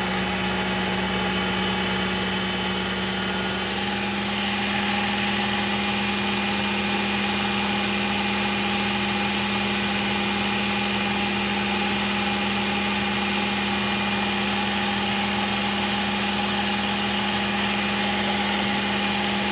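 Work Sharp Ken Onion Edition belt sharpener running steadily with a Trizact A30 belt while a knife edge is refined on it: a constant motor hum under an abrasive hiss. The hum steps up slightly in pitch about four seconds in, and the hiss grows brighter from then on.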